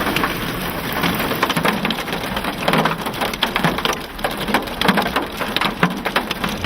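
Hail falling with heavy rain: many irregular sharp hits of hailstones striking hard surfaces over a steady rain hiss.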